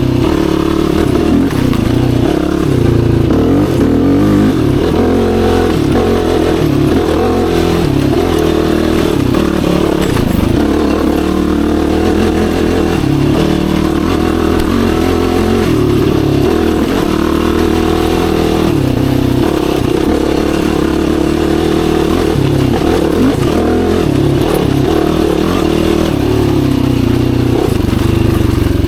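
Yamaha YFZ450R sport quad's single-cylinder four-stroke engine running under way, its pitch repeatedly rising and falling with the throttle.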